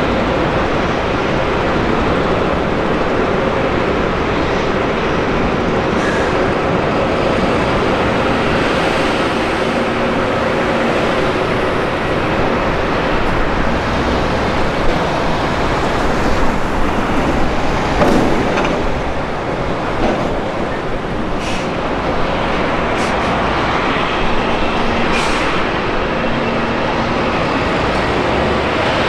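Steady jet airliner engine noise, even in level throughout, with faint steady tones running through it and a few brief sharp sounds in the second half.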